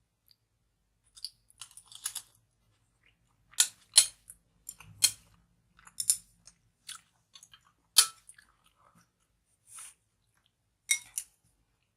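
Mouth chewing and crunching crisp kimchi, with sharp crunches coming irregularly, a dozen or so, between quieter gaps.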